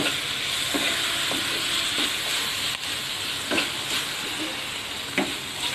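Sliced bitter gourd and onion sizzling in oil in a kadai, stirred with a wooden spatula that scrapes the pan a few times.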